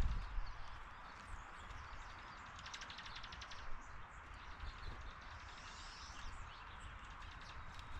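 Faint outdoor backyard ambience with scattered small bird chirps, including a quick high trill about three seconds in, over a steady background hiss. A low thump sounds at the very start.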